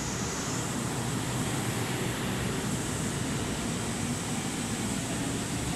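JR West 681 series electric train rolling slowly alongside the platform as it arrives at the station, a steady, even running noise of wheels and running gear.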